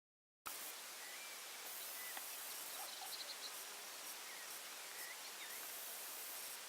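Faint outdoor ambience: a steady hiss with a few brief, faint chirping calls scattered through it. It begins on a short dead silence.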